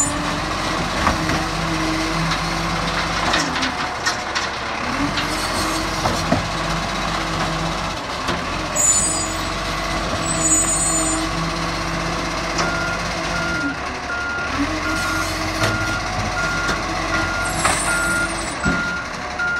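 Recycling truck's engine revving up, holding and dropping back several times, with short hisses of air from its brakes. About two-thirds of the way through, its reversing alarm starts beeping steadily.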